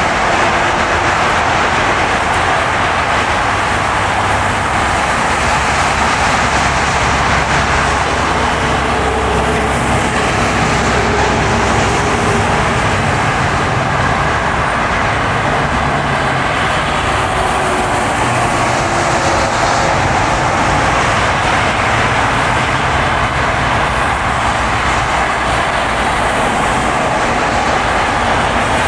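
Steady road noise of a car driving on a snowy, plowed road: tyre noise with a low drivetrain hum that shifts pitch slightly now and then.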